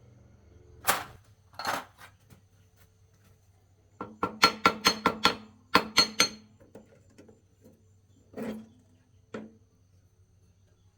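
Hammer blows on metal: two single ringing strikes, then a quick run of about a dozen strikes at around five a second, then two more.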